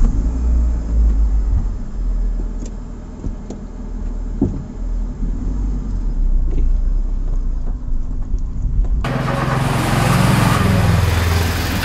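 Manual car's engine idling, heard from inside the cabin, with a few light clicks. About nine seconds in, an abrupt change to the engine being started on the ignition key: the starter cranks and the engine catches and rises in speed, with the key held on after the engine is already running, a habit that strains the starter.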